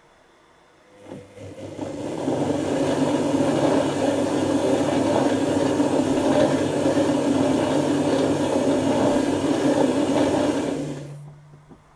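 Dyson Contrarotator CR01 washing machine's motor turning its contra-rotating drums in a wash tumble: it starts about a second in, builds up, runs steadily for about ten seconds and stops near the end.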